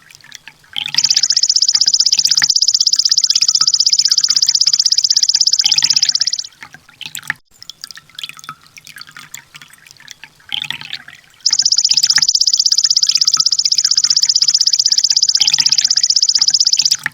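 Sunbird song: a loud, very rapid high trill held for about five seconds, given twice, over a background of dripping water and faint chirps.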